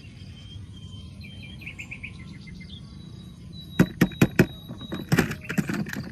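A quick run of small high chirps, like a bird, about a second in, then a series of sharp clicks and knocks: four in quick succession about two thirds of the way through and a further cluster near the end.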